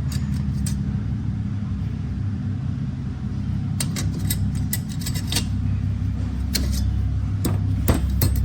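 Metal transmission clutch plates clinking and clicking against each other as they are handled, in scattered clusters, over a steady low hum.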